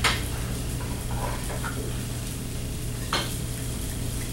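Onions sautéing in a little oil, sizzling steadily, with two short knocks, one at the start and one about three seconds in.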